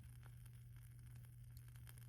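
Faint wood fire crackling, with scattered small snaps, two of them clearer about a quarter second in and near the end, over a steady low hum.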